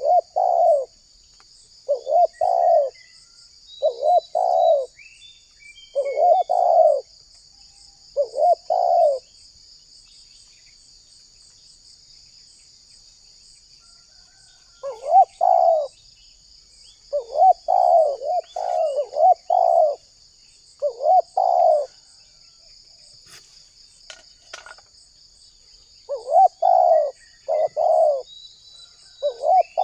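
Spotted dove cooing, repeated phrases of a few notes coming in bouts with pauses of several seconds between them. Under them runs a steady high insect buzz, with a few faint chirps of small birds.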